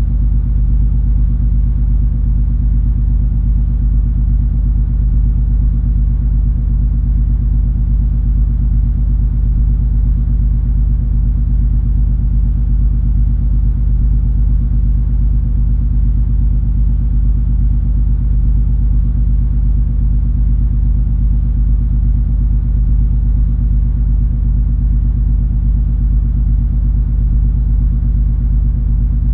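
Steady low rumble and drone of the cruise ferry MS Color Magic under way, its engines keeping up a constant deep hum with only a faint hiss above it.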